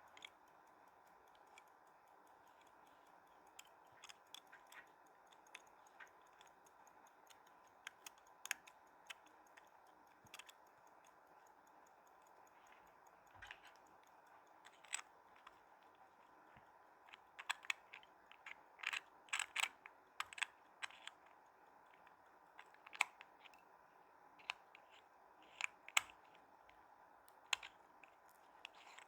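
Small, sharp metal clicks and taps at an irregular pace, sparse at first and bunching up in the second half, as a wristwatch's movement ring and case back are handled and fitted into the case.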